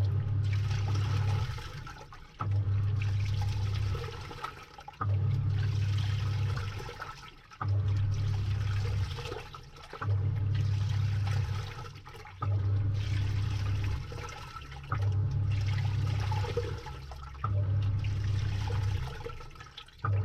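Samsung 6.5 kg top-load washing machine agitating a load in water, heard from inside the drum: the motor drives the pulsator in strokes about every two and a half seconds, each a low hum that tails off, with water sloshing and splashing throughout.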